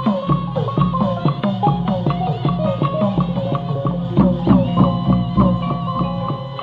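Traditional Burmese ensemble music of the kind that accompanies marionette theatre: tuned percussion struck in quick, dense runs, each note ringing briefly, over a clacking wood-block-like beat.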